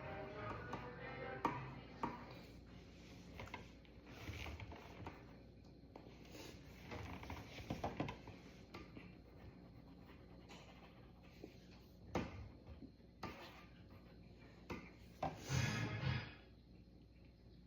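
Drawing tool scratching and rubbing on paper, with scattered taps and clicks and a louder rubbing stretch near the end.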